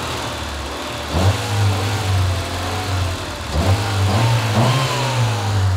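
A Honda Civic's four-cylinder engine, running with its oil drained, revved by hand three times: the pitch climbs quickly each time and then sinks slowly back. It still sounds normal despite having no oil.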